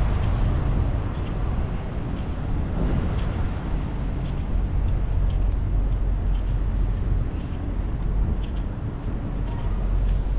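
Vehicle engines running with traffic noise: a steady low rumble with faint ticks above it.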